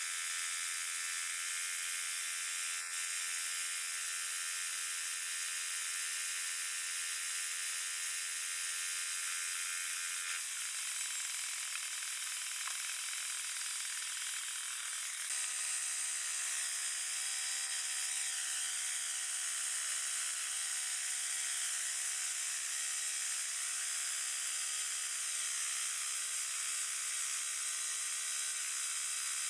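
Portable sawmill running steadily as it cuts through a log. About ten seconds in, its lower running tone drops away for a few seconds, then comes back and carries on.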